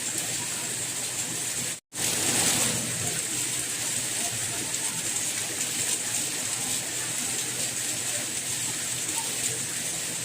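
Steady rain: an even, hissy patter with no rhythm, cutting out to silence for a split second just before two seconds in, then coming back slightly louder for a moment.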